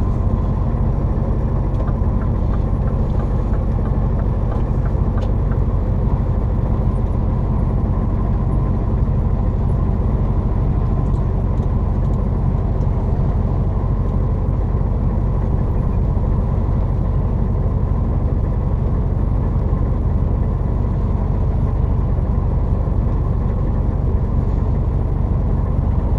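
Semi truck's diesel engine pulling under load up a long snowy grade, heard from inside the cab as a steady, loud drone.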